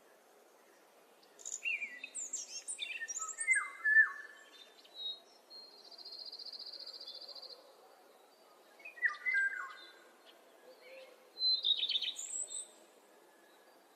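Songbirds singing: phrases of quick chirps and sweeping whistles come in bursts, with a buzzy trill about halfway through, over a faint steady background hush.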